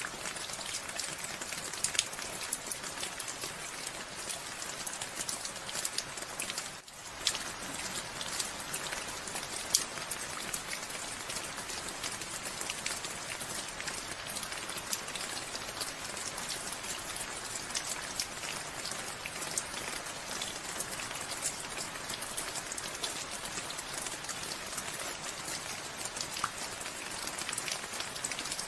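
Steady rainfall, an even hiss dotted with many sharp ticks of individual drops striking a surface. The sound dips for a moment about seven seconds in.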